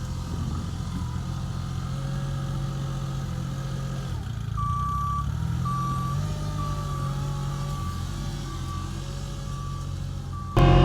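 JCB loader's diesel engine running, its pitch shifting as it works, with the reversing alarm beeping at a steady repeat from about halfway through. The sound suddenly gets much louder just before the end.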